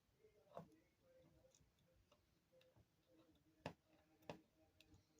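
Near silence broken by a few faint clicks and taps, the clearest about half a second in and twice near the end.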